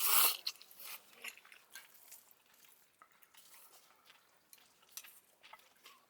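Eating utensils and dishes clinking: a brief loud scrape at the start, then scattered light clicks.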